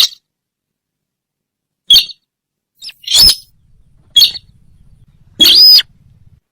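Sintar bird calls played as a hunting lure: five short, loud calls about a second apart, the last one longer.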